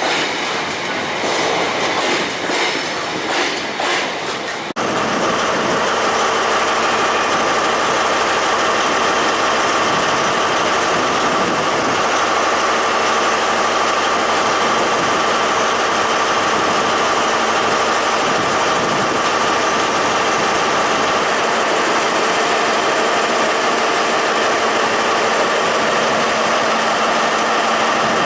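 A train running on rails, its wheels clattering over the rail joints for the first few seconds. About five seconds in, an abrupt cut gives way to a steady, unbroken train noise with a constant hum.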